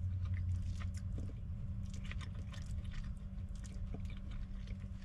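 A person chewing a mouthful of steak, peppers and rice, with scattered faint clicks and a steady low hum underneath.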